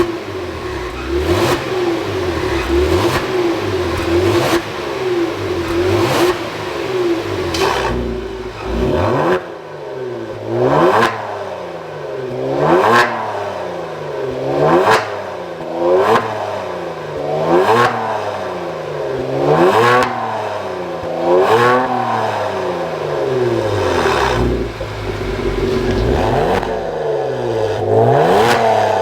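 Genesis G70 3.3T's twin-turbo V6 exhaust, through a Junbiel GT valved aftermarket system, being revved over and over in short blips, about one every two seconds, each rise in pitch falling straight back to idle.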